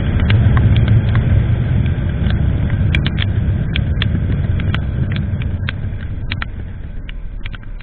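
Motorcycle riding noise on an action camera: a low rumble of engine and wind that slowly dies down, with scattered sharp ticks throughout.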